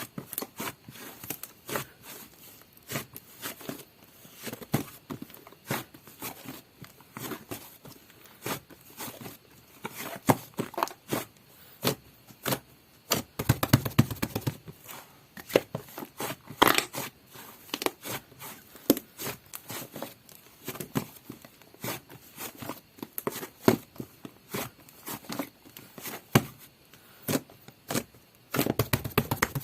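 Soft black butter slime being squeezed, stretched and folded by hand, giving a steady run of small sticky clicks and pops, with denser, louder bursts of popping about halfway through and again near the end.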